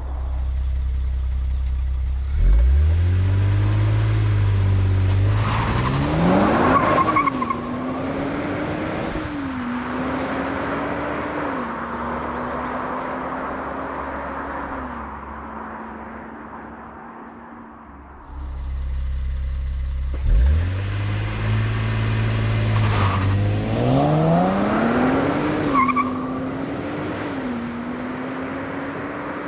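Nissan Z's twin-turbo V6 launching hard at full throttle: a low rumble for a couple of seconds, then the engine note climbs steeply and drops back at each quick upshift, climbing again in between. The same full-throttle run is heard twice, the second starting a little past halfway.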